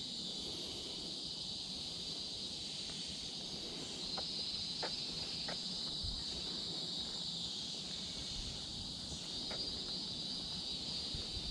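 Steady, high-pitched chorus of tropical forest insects, with a few short chirps over it and a low thump near the end.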